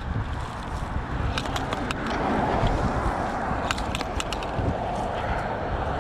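Road traffic running past on a slip road, a steady rush that swells a little from about two seconds in, with scattered light clicks and rustles up close.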